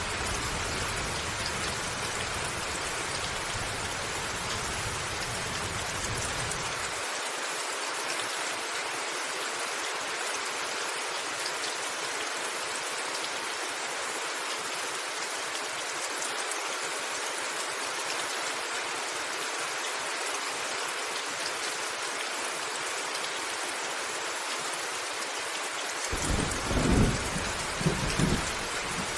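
Steady rain falling on a roof, an even hiss throughout. Near the end, thunder starts rumbling low and loud.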